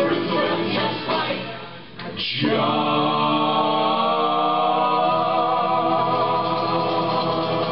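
Live acoustic band music: rhythmic strummed playing, a short drop about two seconds in, then one long sustained chord held to the end.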